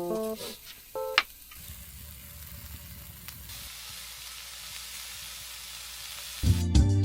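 Food sizzling as it fries in a hot pan, a steady crackling hiss. Music notes fade out at the start, and music comes back loudly near the end.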